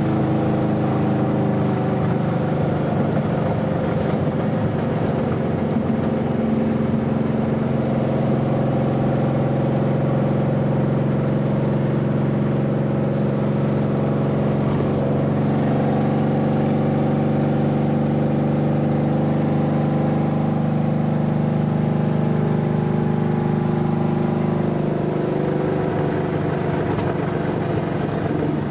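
1966 Pontiac LeMans GTO clone's V8 with open steel headers, a Holley double-pumper and a lumpy camshaft, running steadily while cruising down the road, heard from inside the car. The pitch holds almost steady and shifts slightly near the end.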